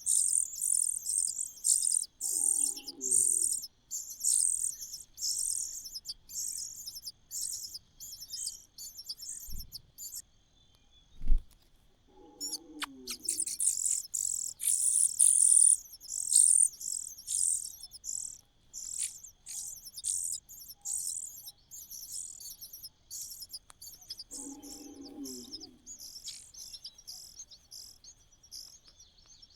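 Nestling birds begging in the nest: rapid runs of short, high-pitched chirps, busiest in the first ten seconds and again from about 13 to 17 seconds. A sharp thump comes about 11 seconds in, and a short lower-pitched call sounds three times.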